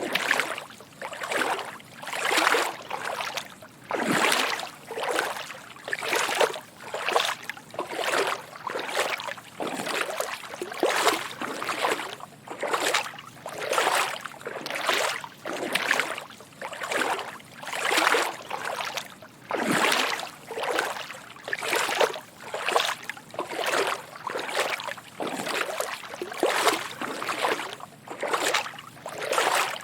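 Footsteps wading through shallow water: soft sloshing splashes at a steady walking pace, about four every three seconds.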